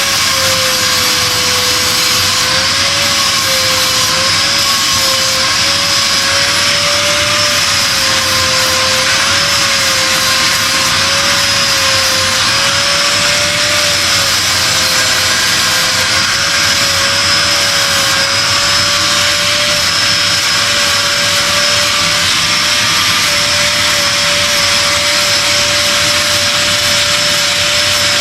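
Grinder running continuously against steel, rounding off the sharp edges of forged tongs; its motor tone wavers slightly as the work is pressed on and eased off.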